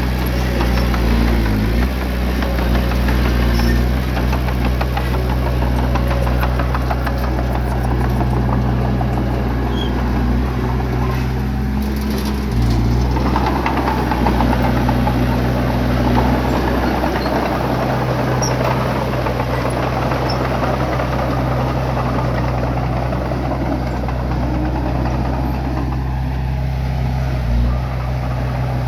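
Bulldozer's diesel engine running steadily. Its pitch shifts about twelve seconds in and again near the end.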